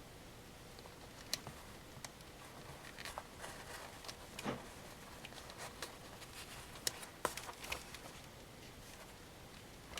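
Faint, scattered small clicks and light handling noise from the plastic headband parts of AKG K240 headphones being worked by hand as a new elastic loop is fitted.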